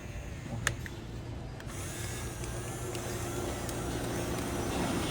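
Electric drive motor and plastic gearbox of an RC construction toy running steadily, with a sharp click about two-thirds of a second in; a louder gear noise comes in near two seconds and slowly grows.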